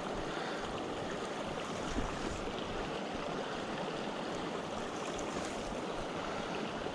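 Steady rushing of a small mountain stream, with one faint knock about two seconds in.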